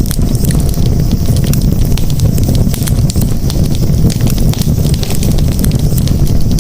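Wood campfire burning, crackling with many sharp, irregular pops over a steady low roar of the flames.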